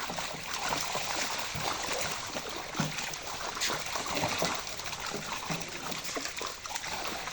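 Pond water splashing and trickling, with a steady run of small irregular splashes as people work in the water.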